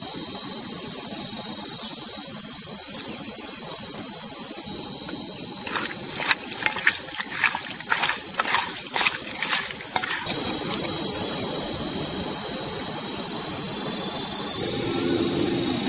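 Insects trilling steadily as a high, even tone. A quick run of sharp cracks or knocks comes in the middle for about four seconds.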